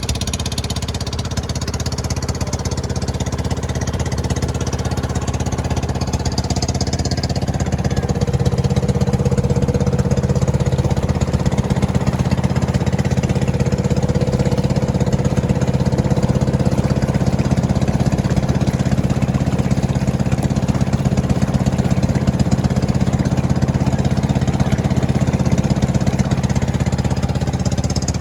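An engine running steadily with a rapid, even pulsing beat, a little louder from about eight seconds in.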